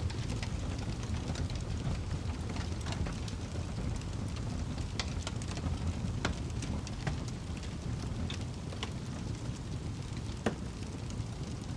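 Wood fire crackling in a fireplace: a steady low rumble of burning with irregular sharp pops and snaps, one louder pop near the end.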